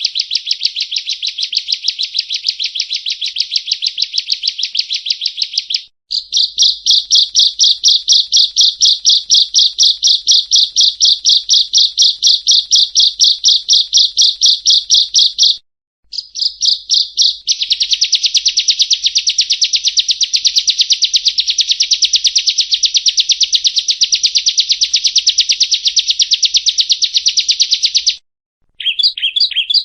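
Bar-winged prinia (ciblek kristal) song: long runs of rapid, evenly repeated high notes, broken by short pauses about six seconds in, near sixteen seconds, and shortly before the end.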